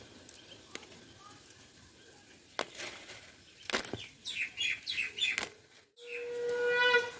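Small birds chirping in the background, with a few sharp clicks among the calls. About six seconds in, a louder steady droning tone starts abruptly.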